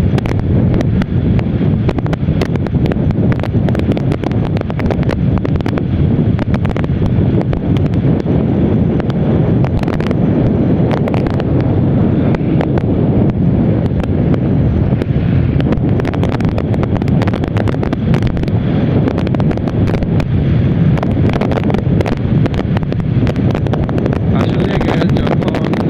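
Wind rushing over the microphone of a moving motorcycle at highway speed: a steady low rumble with frequent crackles, the bike's running noise buried beneath it.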